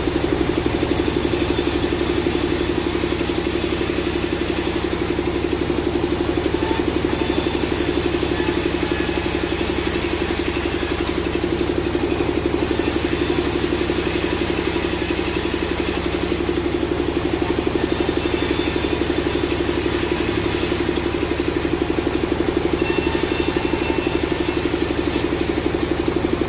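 Sawmill machinery running with a steady engine drone and a constant hum.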